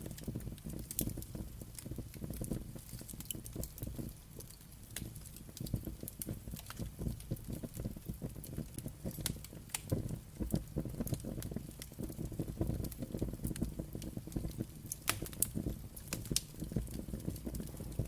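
Wood fire burning, a low rumble of flames with irregular sharp pops and crackles.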